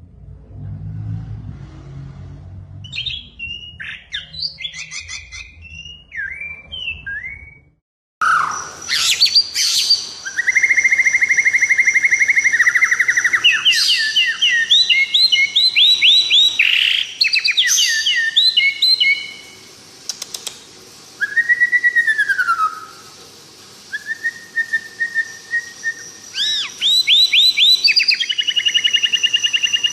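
Kept songbirds singing: faint chirps over a low hum at first, then, after an abrupt cut about 8 seconds in, a loud, varied song of fast trilled runs of repeated notes and short whistled glides.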